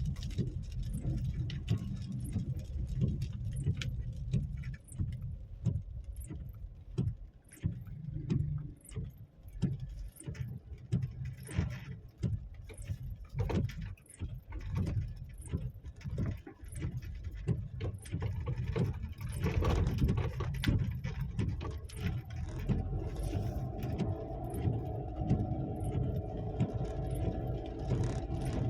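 A motor vehicle's engine running with a heavy low rumble and frequent knocks and rattles, as on a rough, rutted road; a steadier engine note comes in near the end.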